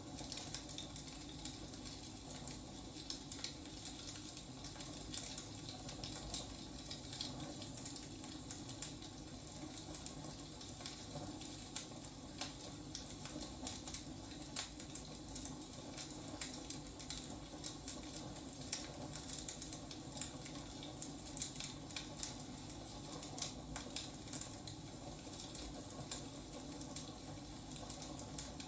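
Wood fire burning steadily, with many irregular small crackles and pops over a soft hiss.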